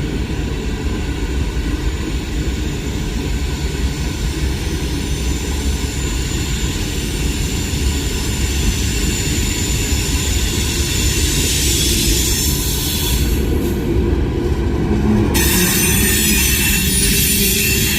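Freight train rolling past: a steady, loud rumble of wheels and cars on the rails, with thin high-pitched wheel squeal over it.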